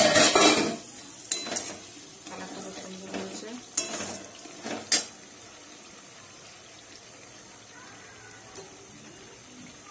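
Thick red gravy frying and sizzling in a steel kadai while a metal spatula stirs and scrapes it. There is a loud burst of sizzling in the first second, then sharp clinks of the spatula against the pan about one, four and five seconds in, and a quiet steady sizzle after that.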